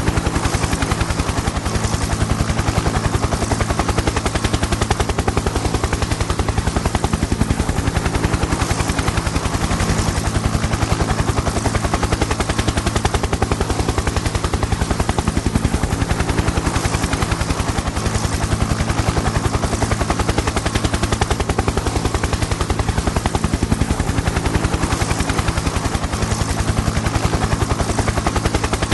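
Helicopter in flight: a rapid, even chop of the rotor blades over a constant low engine drone, unchanging throughout.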